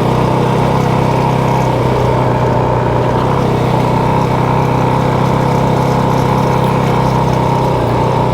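Motorcycle engine running at a steady speed under way, its pitch holding level.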